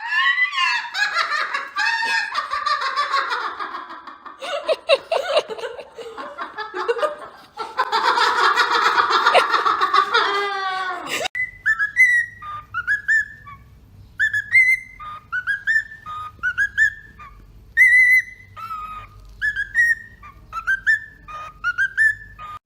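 Parrots calling: a loud, dense run of screeches and laugh-like squawks for about eleven seconds, then an abrupt change to a series of short whistled notes, each sliding up or down, repeated every half second or so over a faint low hum.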